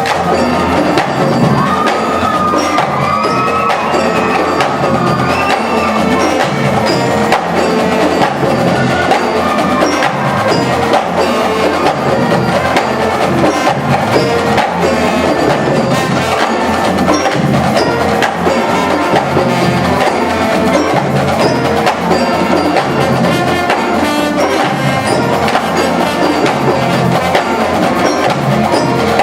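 High-school band and drumline playing live: a dense run of sharp percussion strokes over held melodic notes.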